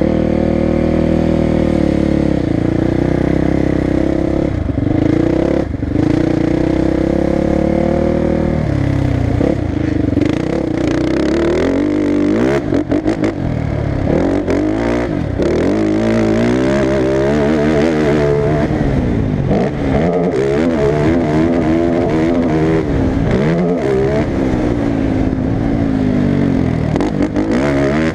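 Motocross bike engine running hard. It holds a fairly steady pitch for about eight seconds, then rises and falls rapidly as the throttle is opened and closed again and again.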